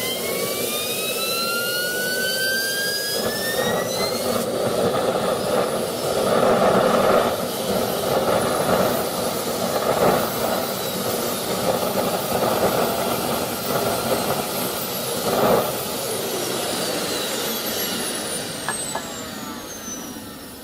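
Jet turbine engine spooling up with a rising whine over the first few seconds, then running with a loud roar and a high whine on top. Near the end the whine falls in pitch and the sound eases off as the engine winds down.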